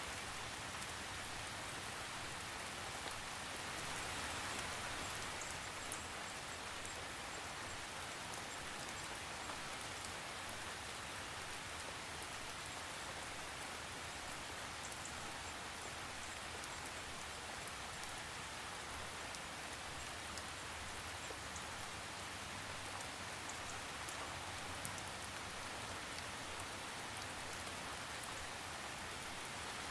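Steady rain falling, an even hiss with scattered small drop ticks on a surface, swelling slightly about four seconds in; no thunder.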